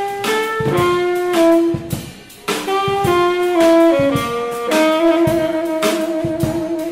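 Small jazz band playing live: a saxophone carries the melody in short notes over a drum kit, pauses briefly about two seconds in, then holds a long note with vibrato.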